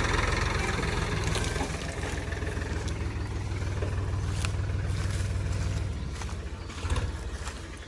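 Sonalika DI 50 RX tractor's diesel engine running steadily, growing gradually fainter. There is a single loud knock about seven seconds in.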